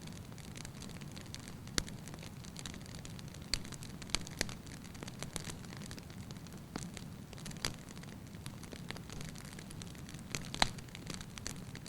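Wood fire burning in a fireplace: a steady low rumble of flames with irregular sharp crackles and pops from the logs, the loudest pop about ten and a half seconds in.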